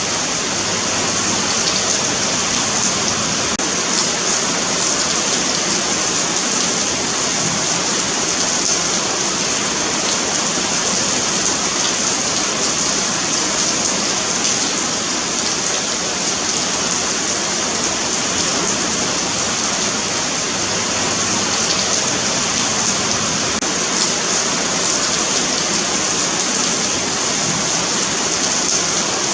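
Steady rain falling on a pavement sidewalk, a continuous hiss of drops hitting concrete.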